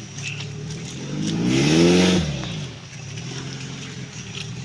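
Off-road vehicle engine idling, revved once about a second in, the pitch rising and then falling back to idle.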